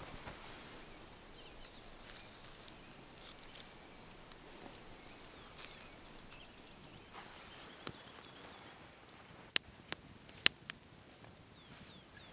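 Quiet outdoor ambience with scattered faint ticks, broken by four sharp clicks in quick succession about three-quarters of the way through.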